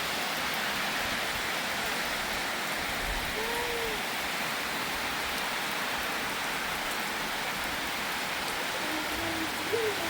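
Steady rain falling, an even hiss at constant level. A faint, brief pitched sound rises and falls about a third of the way in, and another comes just before the end.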